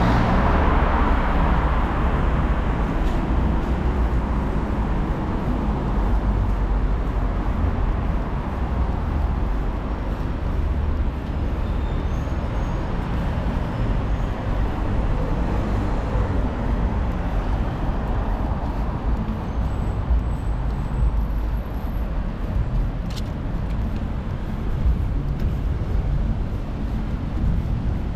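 Road traffic: a steady low rumble of passing vehicles, loudest in the first couple of seconds as one goes by, then easing a little.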